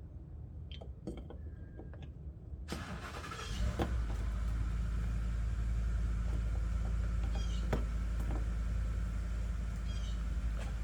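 A few light clicks, then a motor starts about a third of the way in and runs on with a steady, loud low hum.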